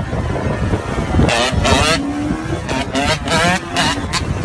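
Vehicle engine accelerating hard, its pitch climbing and dropping back several times as it revs up through the gears.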